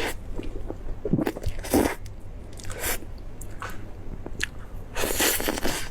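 A person biting and chewing food close to the microphone: a few short wet, crunchy mouth sounds, with a longer, louder one about five seconds in.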